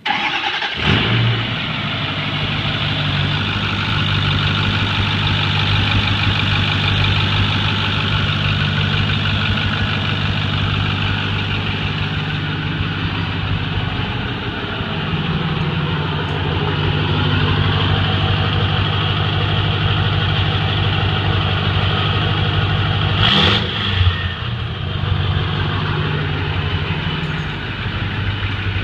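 Turbo-kitted Ford 6.4L Power Stroke V8 diesel starting, then idling steadily. A brief louder burst comes about 23 seconds in.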